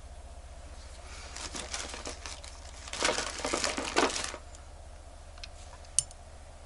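Crinkling of thin wrapping material being handled for about three seconds, loudest near the middle, followed a couple of seconds later by a single sharp click.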